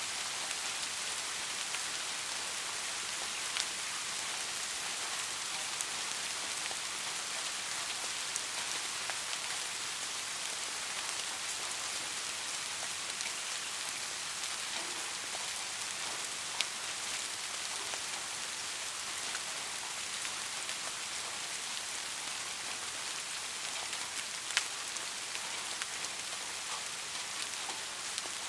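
Steady rain falling, a continuous hiss with scattered individual drop ticks, one sharper tick about three-quarters of the way through.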